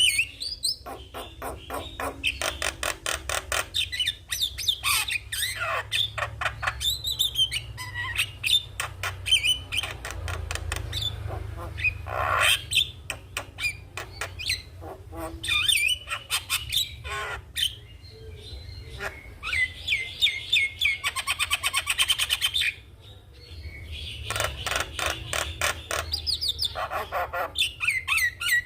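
Javan myna singing vigorously: a rapid, varied stream of clicking rattles, whistles and harsh squawks.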